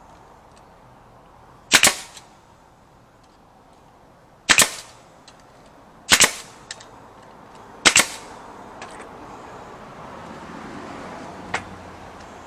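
Four sharp, loud cracks, one every two seconds or so, each with a quick double snap, with faint clicks between them.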